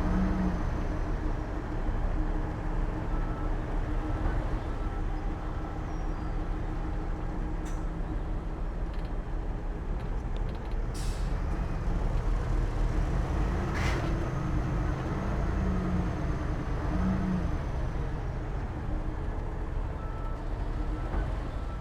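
Heavy diesel earthmoving machines, a bulldozer and a dump truck, running steadily. A short hiss comes about eleven seconds in and a sharp clank a few seconds later.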